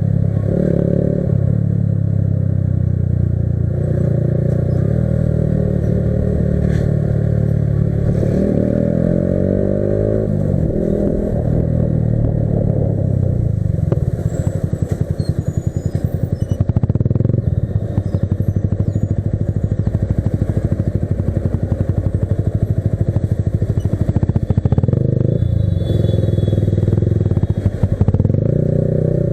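Yamaha R15 V3 motorcycle's single-cylinder engine running under way, its note rising and falling in pitch about a third of the way in, with a fast even pulsing through the middle stretch.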